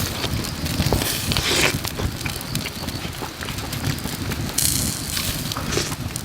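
Wood fire crackling, with sharp pops scattered throughout over a steady low rumble.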